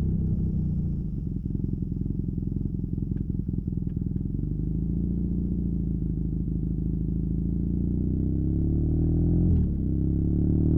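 BMW R nineT's 1170 cc air/oil-cooled boxer twin running through a Competition Werkes slip-on exhaust while riding. The engine note falls about a second in, holds steady, then climbs under acceleration, with a brief dip for an upshift near the end.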